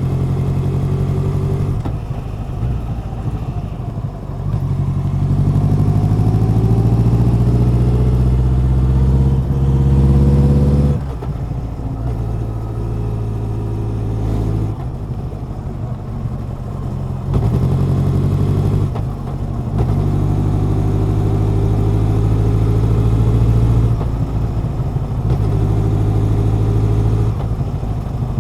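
Honda CB1100's air-cooled inline-four engine and exhaust under way. The pitch climbs steadily as it accelerates, drops sharply about eleven seconds in, then rises and falls again with the throttle.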